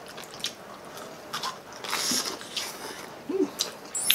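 Close-up eating sounds: bites into a garlic fried chicken drumstick and crispy pata, with chewing and wet mouth noises and one louder crunch about two seconds in. A brief hum of enjoyment comes near the end.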